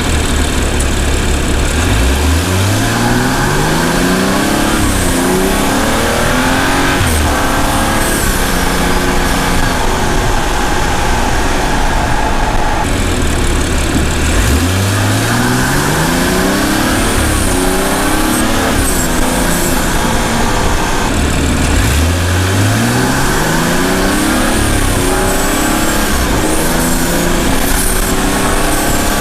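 BMW M235i's turbocharged inline-six exhaust, heard three times pulling away from a steady low idle or cruise. Each time the note climbs and drops back through gear changes, then settles again between pulls.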